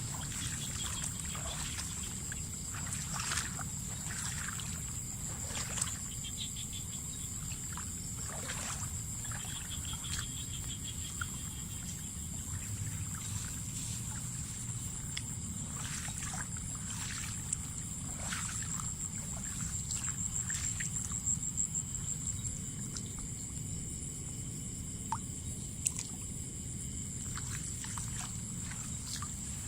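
Water trickling and splashing in short, scattered bursts as a small boat works along a set hook line, with a steady high whine from insects behind it.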